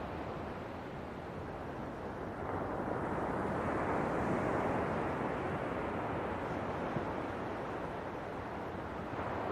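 Ocean waves washing ashore in a steady rush. One swell builds about two and a half seconds in and eases off by about eight seconds, and another rises near the end.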